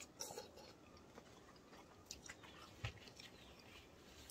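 Faint chewing of fresh coconut flesh, with a few soft clicks of spoons in the coconut shells and a short low knock about three seconds in.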